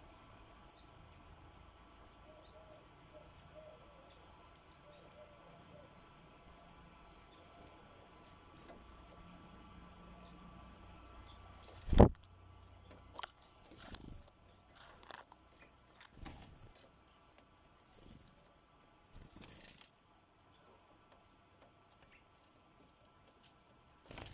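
Sparrows at a bird feeder: faint chirps, then a sharp loud knock about halfway, followed by a run of irregular taps and knocks as the birds land and peck at the feeder.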